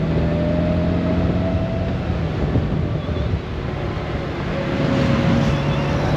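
Honda Gold Wing's flat-six engine running under way, with heavy wind rush over the microphone. The engine note dips slightly once or twice.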